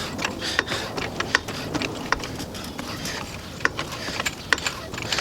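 Irregular metallic clicks and clinks from hand tools being worked at a car wheel during a brake job, with no steady rhythm.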